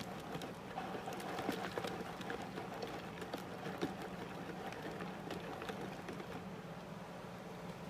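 Pot of water at the boil, bubbling with dense, irregular popping and crackling over a steady low hum.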